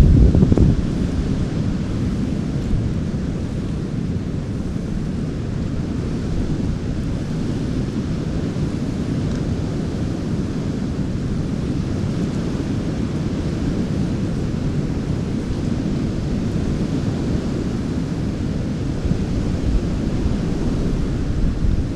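Strong wind buffeting the microphone: a steady low rumbling rush, loudest in the first second.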